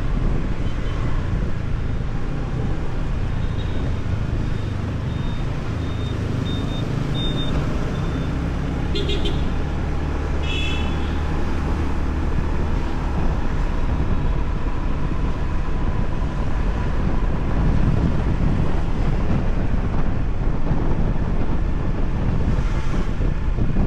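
Riding pillion on a motorbike through city traffic: a steady low rumble of engine, traffic and wind, with a run of short high beeps and then two horn toots from passing vehicles about midway.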